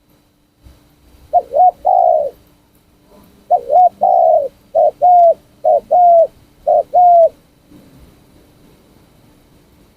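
Spotted dove cooing: five phrases in a row, each a quick pair of short coos followed by a longer drawn-out coo. The phrases come about a second apart and stop about seven seconds in.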